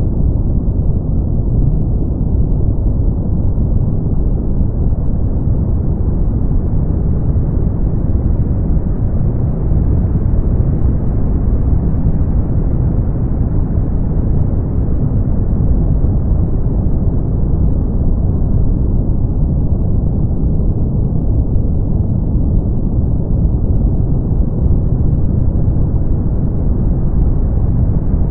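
Steady brown noise: an even, deep rumbling hiss with most of its energy low down and little above a couple of kilohertz. Its brightness swells and fades slowly over about twenty seconds.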